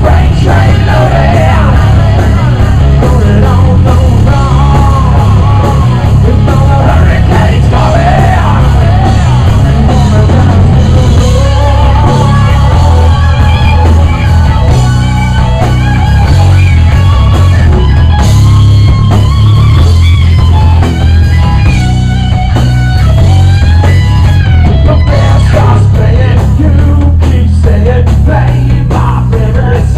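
Rock band playing loudly live, a full band mix with a heavy low end and melodic lines over it.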